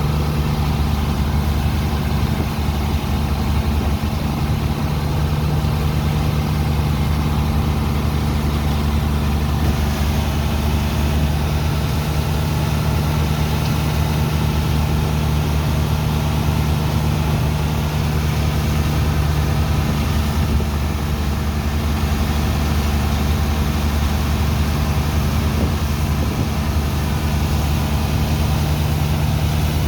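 Heavy diesel engine of a sand-unloading dredger pump running steadily at a constant speed, with a steady rushing hiss over it.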